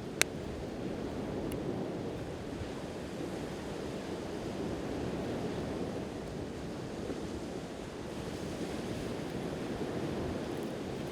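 Ocean waves washing steadily on the shore with some wind on the microphone. A single sharp pop from the crackling campfire comes just after the start and is the loudest sound, with a faint tick about a second and a half in.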